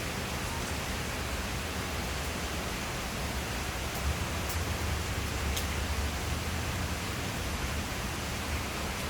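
Steady hiss of falling rain, with a low rumble swelling from about four to seven seconds in and a few faint ticks.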